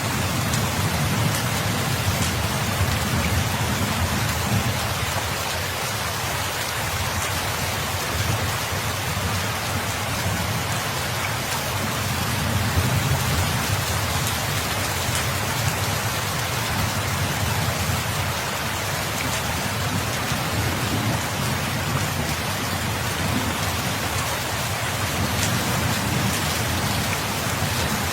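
Steady heavy rain falling and pattering on surfaces, with a low rumble underneath that swells and eases.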